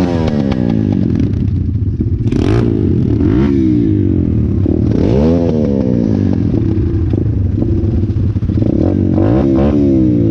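Small pit bike engines running: one is revved up and down over and over, its pitch rising and falling every second or two, while another runs at a steady pitch underneath.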